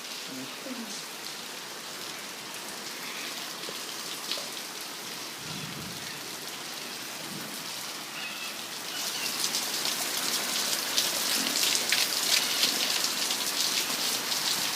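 Heavy thunderstorm rain falling and pattering on surfaces, a steady hiss of many drops that grows clearly louder about nine seconds in as the downpour intensifies.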